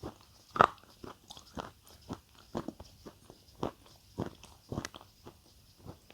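Close-miked crunchy chewing: a person biting and chewing crisp food, with a loud crunch about half a second in, then crunches about twice a second.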